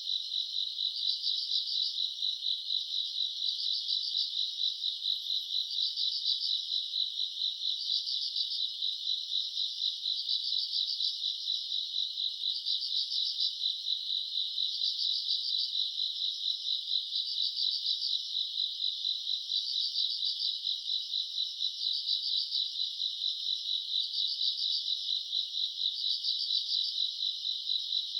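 Summer-night grass insects, crickets and the like, trilling steadily in a high chorus that swells in regular pulses about every two seconds.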